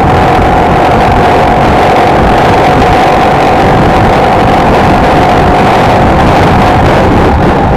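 Honda XLR125R's air-cooled single-cylinder four-stroke engine running at a steady cruising speed, a constant engine hum over a dense rush of riding noise.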